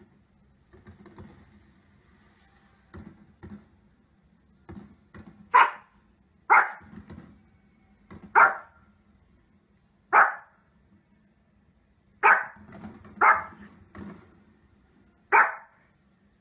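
Small long-coated dog barking: seven sharp single barks, one to two seconds apart, starting about five seconds in, with a few softer sounds before them.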